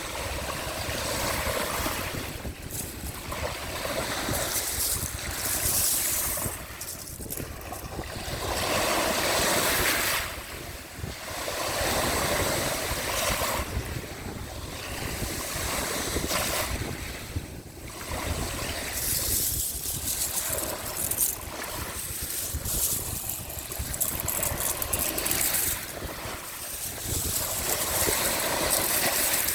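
Sea waves washing onto the shore, swelling and fading every few seconds, with wind rumbling on the microphone.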